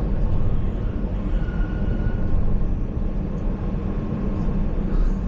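Steady low rumble of a moving vehicle, with a faint high whine that comes and goes about a second and a half in.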